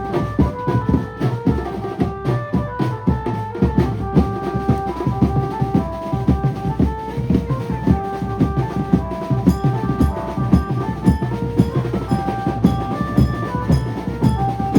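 A Maharashtrian banjo band playing: fast, dense drumming on bass drum and snare, with a melody of held, stepping notes over it.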